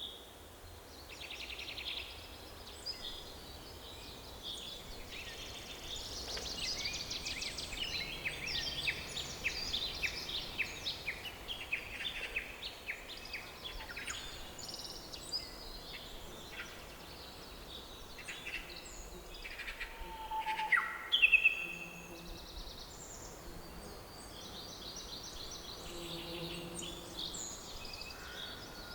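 Forest birdsong: several birds singing and calling over each other with rapid trills, chirps and short falling whistles, with a louder call or two about two-thirds of the way through.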